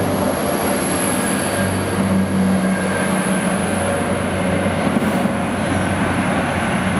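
Diesel multiple unit passenger train running past the platform and drawing away, its engines humming steadily over the rumble of wheels on rail.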